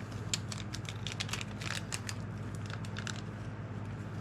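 Small plastic packet of O-rings crinkling and crackling as it is opened and handled, a quick run of crackles that eases off about three seconds in. A steady low hum runs underneath.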